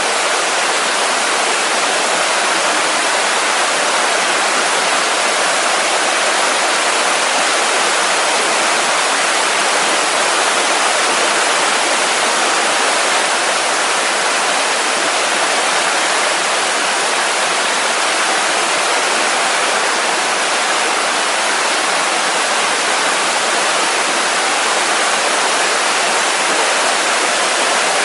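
Mountain waterfall: water pouring and splashing in a steady, unbroken rush.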